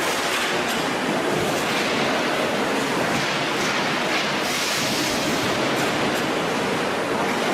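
Steady, dense machine noise of a water heater tank production line, with light clicks now and then.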